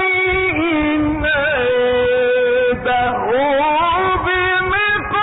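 A man's voice reciting the Quran in the drawn-out melodic mujawwad style, holding long ornamented notes that glide up and down in pitch. The sound is cut off above the middle range, as in an old radio-archive recording.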